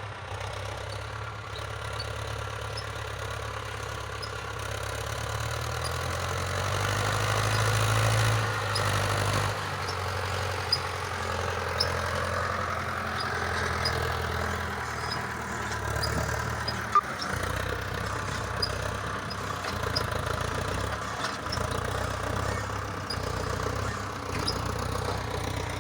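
Hindustan 80 hp tractor's diesel engine running steadily, swelling louder for a few seconds before the middle and then easing back, with a few brief sharp knocks in the second half.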